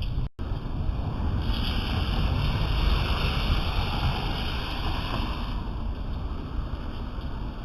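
Steady rain falling, an even hiss over a low rumble. The hiss grows brighter and heavier from about a second and a half in until about five and a half seconds, and the sound cuts out for an instant just after the start.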